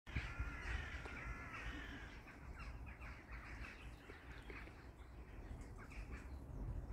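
Birds calling: a long, wavering harsh call in the first two seconds, then a run of short, quick chirps. A low rumble sits underneath.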